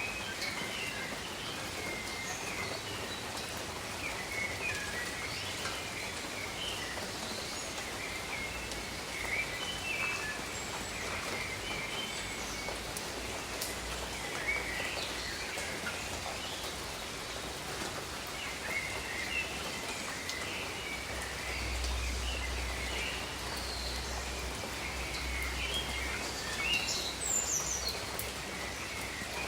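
Steady rain falling, with many small birds chirping in short, high calls throughout. A low rumble comes in about two thirds of the way through.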